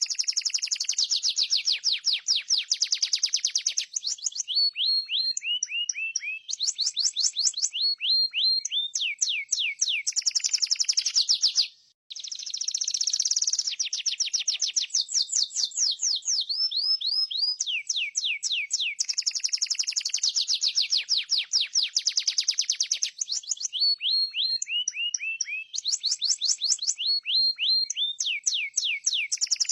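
Canary singing a long song of fast rolling trills, each of quick repeated notes, broken by short runs of falling slides. The song stops suddenly about twelve seconds in and starts again with the same sequence, as a looped master recording does.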